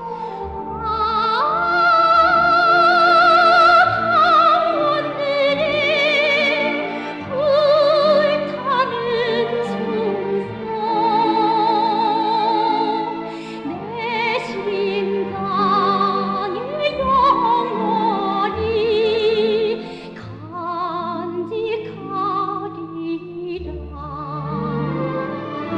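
Operatic-style singing: a high solo voice with wide vibrato, held on long notes, over instrumental accompaniment.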